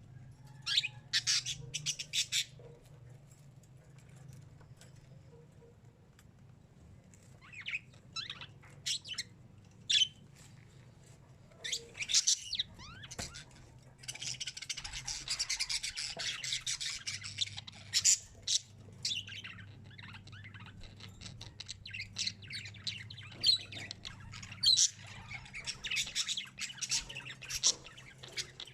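Parakeets chirping and chattering in short bursts, breaking into a longer stretch of dense chatter about halfway through and again near the end.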